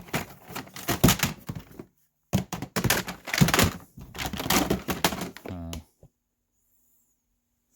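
Hard plastic toys clattering and knocking against each other as they are rummaged through and moved around, in two busy spells with a short break about two seconds in.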